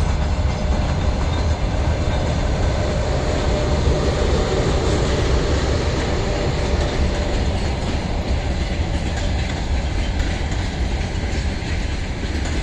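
Loud, steady rumble of a departing passenger train, its carriages rolling past with wheels clacking over the rail joints.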